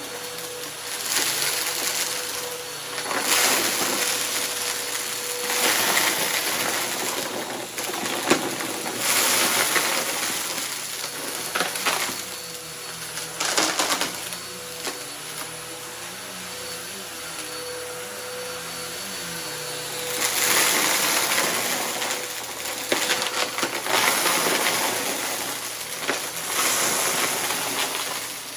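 Upright vacuum cleaner running over rugs scattered with debris. Its motor holds a steady whine while the suction noise swells and fades with each push and pull, broken by sharp crackles and rattles as debris is sucked up.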